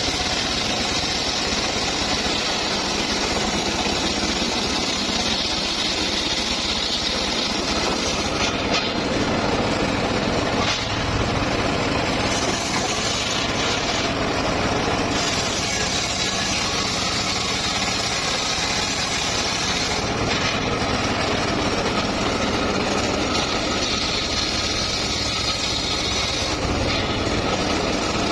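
Motor-driven wood-sawing machine running steadily as it saws mahogany timber, a continuous engine-like drone whose high hiss thins out and returns several times.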